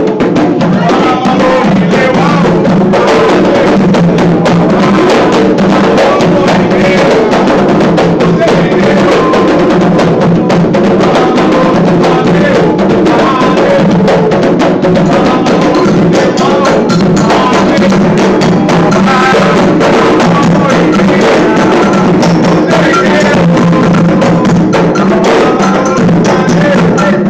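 Candomblé ritual music: hand drums playing a steady rhythm, with voices chanting over them.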